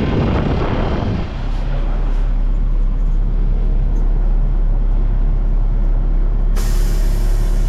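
Heavy equipment engine running steadily with a deep hum. About six and a half seconds in, a loud hiss starts and keeps going.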